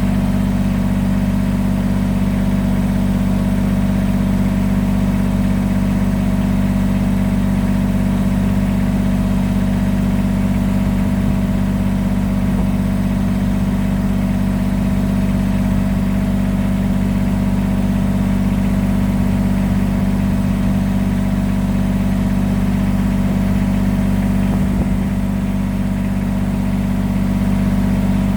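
Kubota BX23S compact tractor's three-cylinder diesel engine running at a steady speed, an even drone with no change in pitch or loudness.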